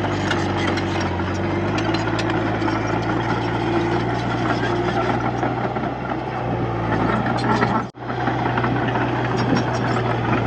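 Diesel engine of a Komatsu D31P bulldozer running steadily while it works soil, with a sudden brief dropout about eight seconds in.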